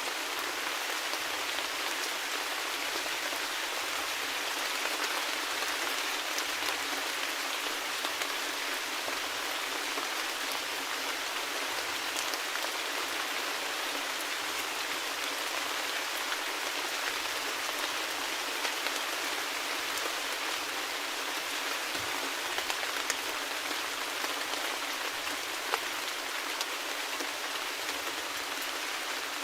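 Steady rain falling on a surface, an even patter with scattered individual drops ticking.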